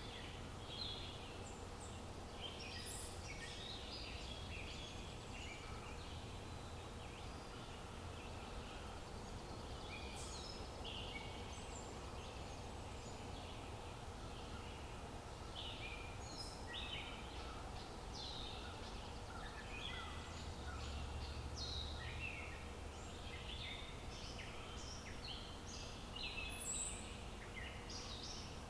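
Small songbirds chirping in many quick, short calls, overlapping throughout, over a faint steady hum of outdoor ambience.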